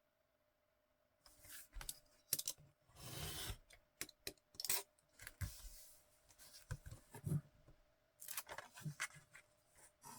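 Card and paper being handled and trimmed on a craft table: a string of sharp clicks and taps, with a short scraping, rustling stroke about three seconds in.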